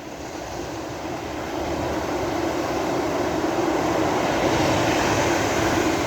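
Sea waves surging and washing on a beach, the rushing noise swelling over a few seconds to a peak near the end before easing slightly.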